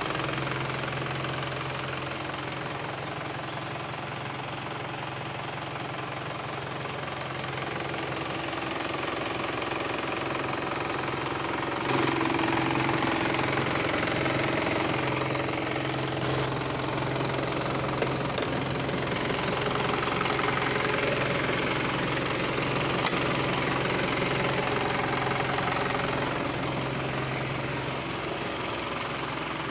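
Isuzu 4HF1 four-cylinder diesel engine of an Elf tipper truck running with a steady, knocking diesel idle; about twelve seconds in it gets louder and stays up for a while before settling back.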